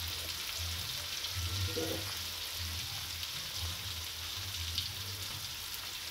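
Chopped shallots, garlic and red chillies frying in hot oil in a wok: a steady sizzle with a low rumble underneath.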